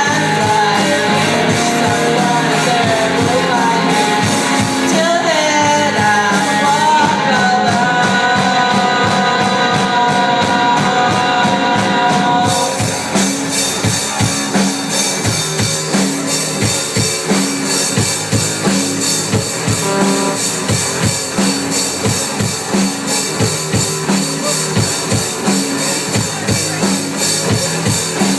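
Live rock band playing: drum kit, electric guitars and singing. About twelve seconds in the held, gliding notes drop away and a steady, pulsing drum beat carries on with the guitars.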